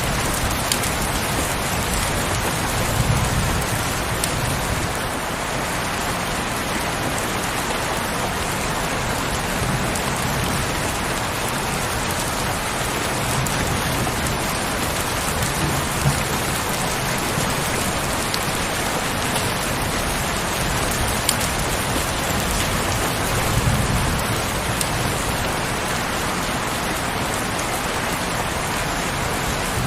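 Heavy rain falling steadily as a dense, even hiss, with a few brief low rumbles scattered through it.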